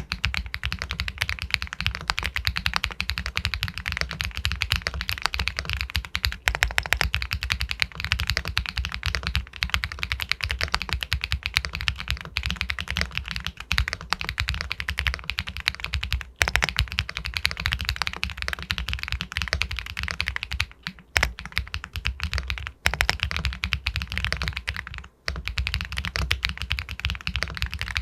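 Continuous fast typing on an Epomaker Galaxy 80 Pro all-aluminium mechanical keyboard with White Jade linear switches: a dense stream of key strikes with a pebble-like clack, with two brief pauses in the later part.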